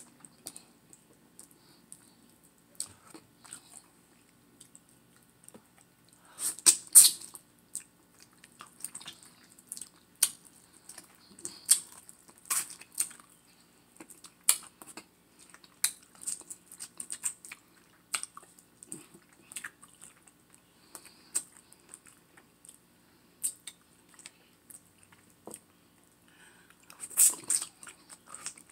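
Close-up chewing and wet mouth smacks while eating baked turkey leg meat, with scattered short clicks and two louder clusters, one about seven seconds in and one near the end.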